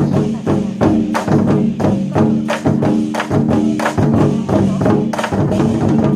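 Chinese war drums (zhangu) beaten in a fast rhythm of sharp strikes, several a second, over pitched backing music.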